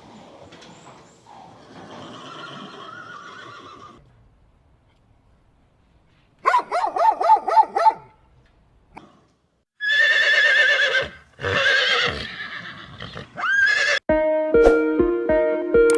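Horse whinnying: a short quavering neigh, then after a pause a longer, louder whinny in two parts. Music with plucked notes comes in near the end.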